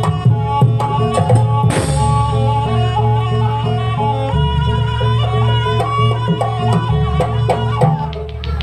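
Live Banyuwangi traditional dance music: a melody line moving over drums and a steady low bass, winding down near the end.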